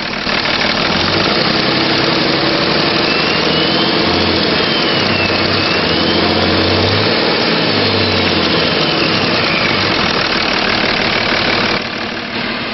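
A 2005 Dodge Ram 2500's 5.9-litre Cummins inline-six turbo diesel running, revved up twice, with a high turbo whine that rises and falls with the revs. The sound drops back near the end.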